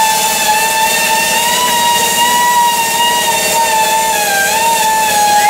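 A small motor running at high speed with a steady, high-pitched whine that wavers slightly in pitch.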